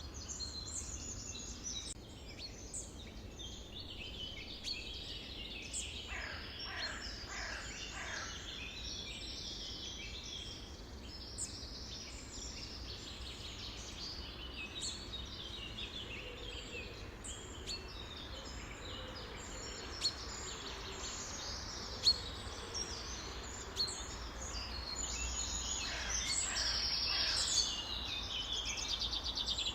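A flock of songbirds chirping and singing together in a dense, overlapping chorus, over a steady low rumble. Twice, about six seconds in and again near the end, a run of falling whistled notes stands out.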